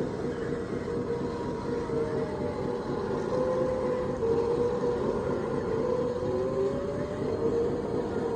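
Scale RC construction machine running: a steady electric motor and hydraulic pump whine whose pitch wavers up and down as the load changes.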